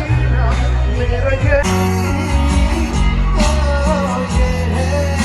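Live band music from an open-air concert: a singer over guitar and a heavy bass line.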